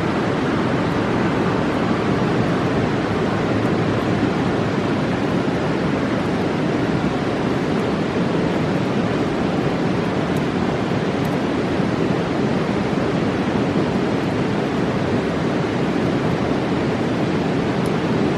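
Rocky Mountain river rushing steadily: a loud, even roar of fast water with no break or change, with a few faint ticks high above it.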